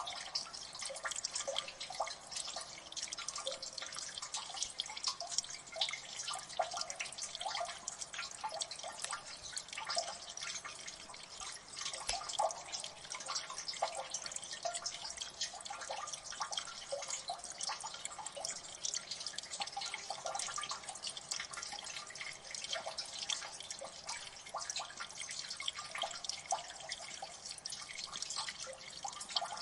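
Water dripping in a gully: many irregular drops plinking and ticking at once, a dense, steady patter of small splashes.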